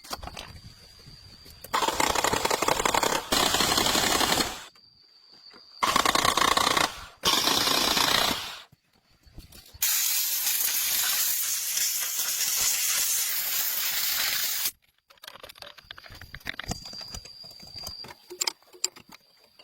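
Pressurised spray hissing in three bursts, the last and longest lasting about five seconds, with small clicks and handling knocks between the bursts.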